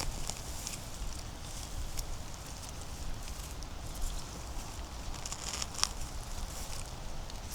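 Footsteps on dry forest litter: small crackles of leaves and twigs underfoot, with one sharper snap about six seconds in.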